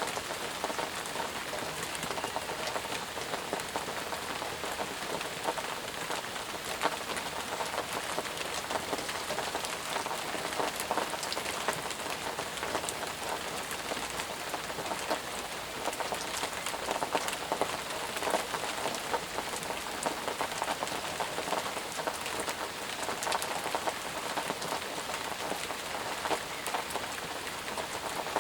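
Steady, intense rainfall, with many separate drops striking close by over a dense even hiss.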